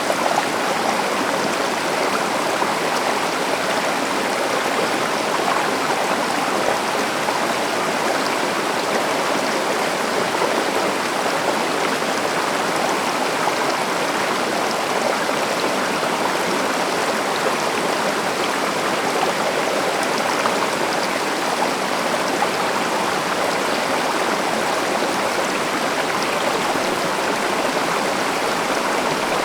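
Forest stream running steadily, a constant rush of flowing water.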